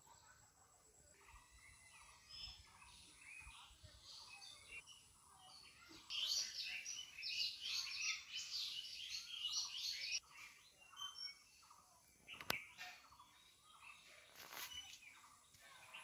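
Birds chirping faintly, with a dense run of rapid high chirps from about six to ten seconds in and scattered single calls otherwise. A single sharp click comes a little after the chirping run.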